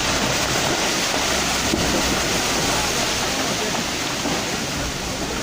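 Steady rushing noise with no pitch to it, like fast-moving water or debris, holding at one level throughout.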